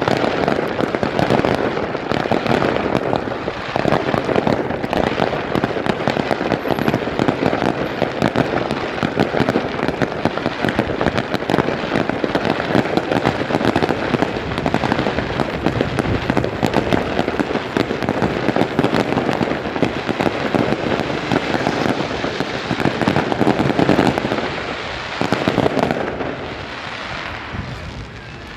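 Daytime fireworks display: a dense, continuous crackling of many small firework bursts, thinning out and getting quieter near the end.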